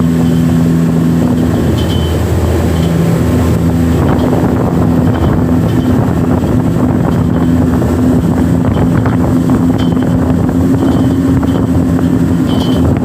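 Motorboat engine running at a steady speed, a loud, even drone over a constant rush of noise.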